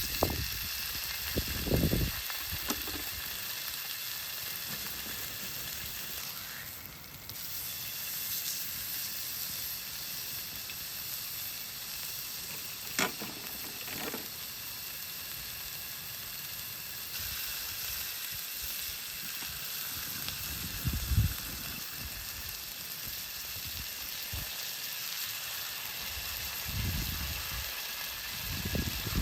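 Food sizzling steadily in a hot pan. Two short clicks come about midway, and there are a few low bumps of handling.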